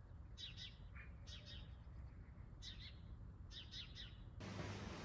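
Faint bird chirps: several short, high calls in small groups about a second apart. Near the end they stop and a steady hiss of room tone takes over.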